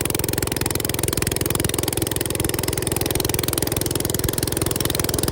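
Small single-cylinder minibike engine idling steadily close by, a fast even pulse of firing strokes with no revving.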